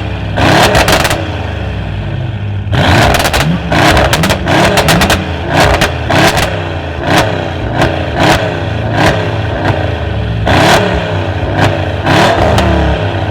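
Tuned car's engine revved hard through its exhaust in a rapid series of short blips, about a dozen, with the pitch rising and falling on each rev over a steady low rumble.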